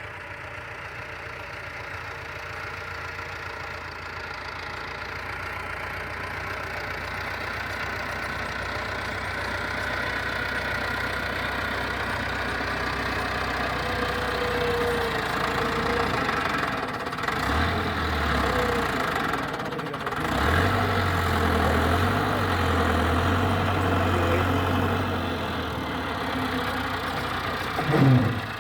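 Tractor engine running, growing steadily louder over the first half. From a bit past halfway a deep low drone comes and goes, and near the end a brief loud sound drops sharply in pitch.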